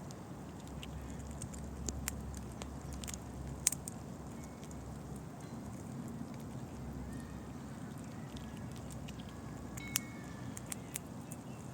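A squirrel cracking and gnawing pine nut shells: scattered sharp clicks and cracks, irregularly spaced, the loudest about four seconds in and again near ten seconds, over a low steady rumble.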